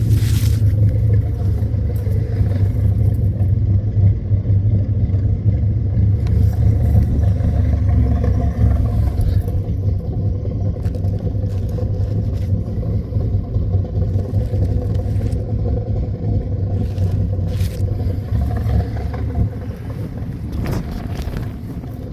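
The built 350 V8 of a 1952 Chevrolet 3100 pickup running steadily through dual exhaust with Magnaflow mufflers, a deep, even exhaust note that eases off slightly near the end.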